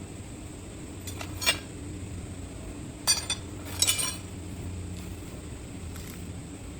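Three short metallic clinks of metal pieces knocking together, spaced over a few seconds, over a steady low background hum.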